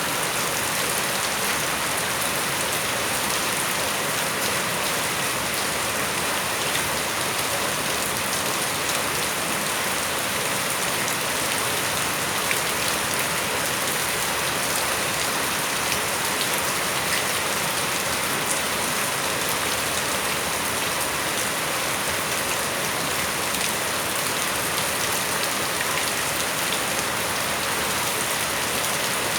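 Steady rain falling in front of a house, an even hiss with fine drops pattering on surfaces.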